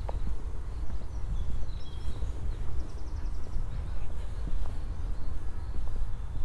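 Outdoor ambience on a walk: a steady low rumble under footsteps on a path, with a few faint small-bird chirps and a short rapid high trill about three seconds in.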